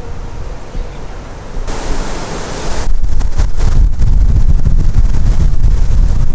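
Strong gusty wind: a rushing hiss through the trees about two seconds in, then heavy low rumbling of wind buffeting the microphone.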